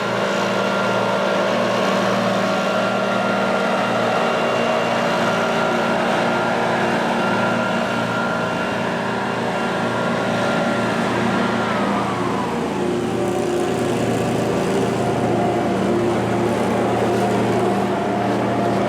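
An engine running steadily, with a whine that drops in pitch about twelve seconds in.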